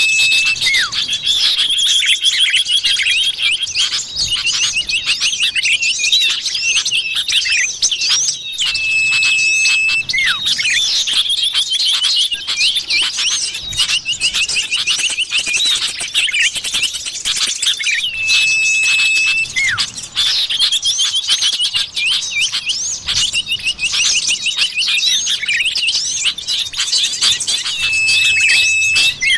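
Bird-lure recording of common iora (cipoh) calls: dense, overlapping chirps and fast trills, with a long steady whistle that recurs about every nine and a half seconds as the recording loops.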